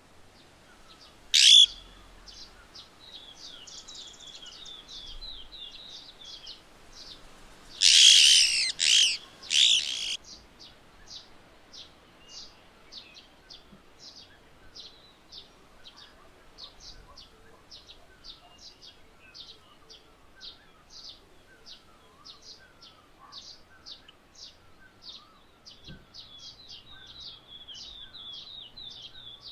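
Slaty-headed parakeet calls: one loud shrill call about a second and a half in, then a run of four loud calls around the eight-second mark. Under them runs a steady series of thin, high bird chips, about two a second, with short trilling runs.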